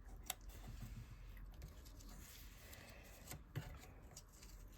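Near silence, with faint rustling and light clicks of small pieces of cardstock and patterned paper being handled and pressed down as they are glued onto a card; two of the clicks are sharper, one just after the start and one about three seconds in.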